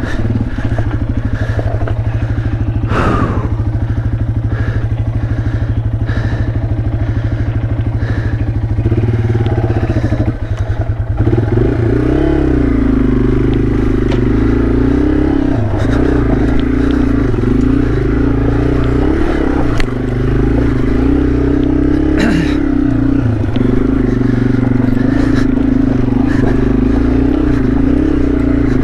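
Small single-cylinder trail motorcycle engine running as it is ridden, its note rising and falling with the throttle. About ten seconds in, the engine note dips briefly, then carries on. Occasional knocks and rattles come through over the engine.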